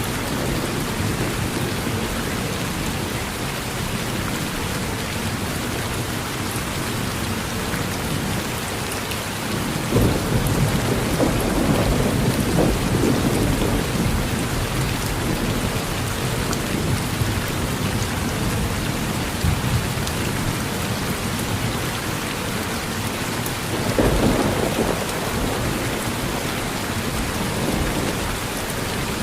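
Steady heavy rain falling on a porch, with thunder rumbling about a third of the way through for several seconds and again, more briefly, near the end.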